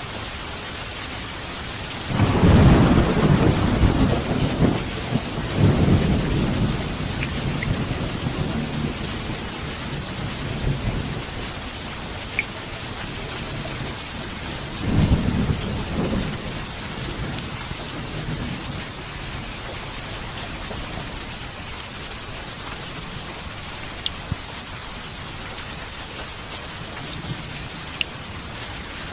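Steady rain falling, with rolling thunder: a long low rumble building a couple of seconds in and rolling on for several seconds, and a second, shorter rumble about halfway through.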